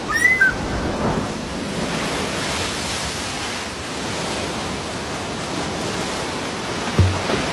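A steady rushing hiss, with two short high chirps near the start and a low thump near the end.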